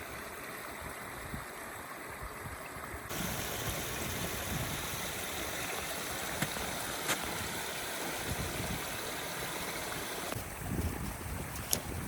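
Water running in a drainage channel, a steady rushing, with wind on the microphone and a few faint clicks.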